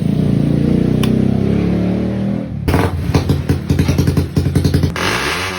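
Motorcycle engine, a Rusi with a converted Raider cylinder head, revving loudly: a held rev, then from a little before halfway a rapid stuttering run of blips until near the end.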